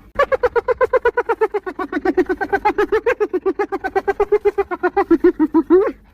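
Spotted hyena giggling: one long unbroken run of rapid staccato whoops, about ten a second. The pitch drops slightly at first, then holds, and the run ends on a rising note.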